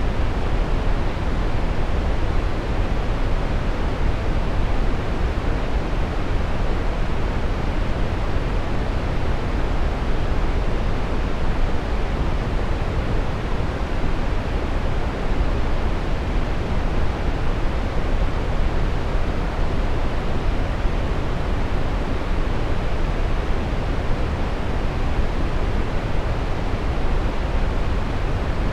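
Steady brown noise: an even, unchanging rush of noise with most of its weight in the low end, dull and deep rather than hissy.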